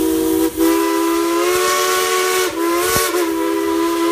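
Steam locomotive whistle of the Dollywood train blowing a long, loud blast with a few brief breaks, over a hiss of steam.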